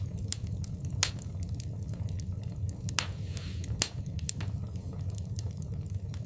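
Fire in a fireplace crackling: irregular sharp pops and snaps over a low steady rumble, with the loudest pops about a second in and near four seconds in, and a brief hiss around three seconds.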